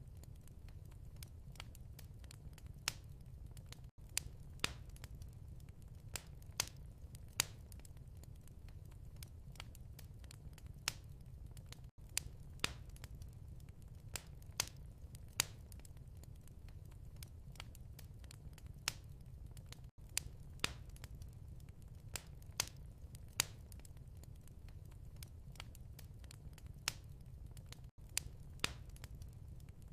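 Wood fire crackling in a fireplace: a steady low rumble with sharp, irregular pops and snaps. The sound drops out for an instant about every eight seconds.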